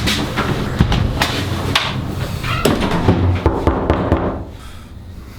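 Wind buffeting the microphone in a low rumble, with a string of knocks and thumps. The wind noise drops away sharply about four seconds in.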